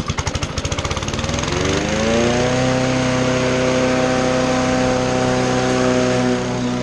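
Two-stroke string trimmer engine catching and revving up: separate firing strokes quicken into a rising whine over the first couple of seconds, then it holds at steady high revs for cutting, easing off slightly near the end.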